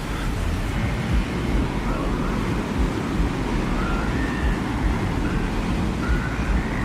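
Desert wind ambience: a steady deep rushing rumble, with faint short whistling tones that waver and come and go.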